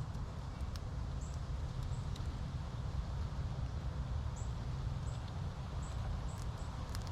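Wind buffeting a GoPro's microphone as a steady low rumble. Faint short, high chirps repeat every second or so, with a few light clicks.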